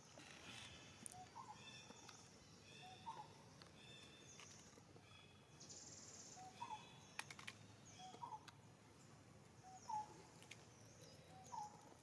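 Faint birdsong: a short two-note call rising in pitch, repeated every one to three seconds, with fainter higher chirps behind it.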